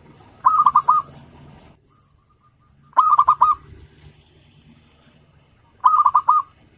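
Zebra dove (perkutut) singing its cooing song three times, each phrase a quick run of about five short notes, repeated every two and a half to three seconds.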